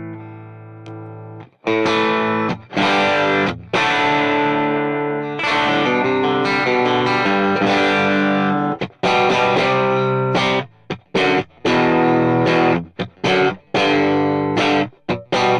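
Stratocaster-style electric guitar boosted by an Xotic RC Booster (gain about 9 o'clock, treble up, bass cut) into a modelled Matchless EF86 channel. A ringing chord fades, then strummed chords break into short, clipped stabs in the second half. This is the pedal's basic boost sound.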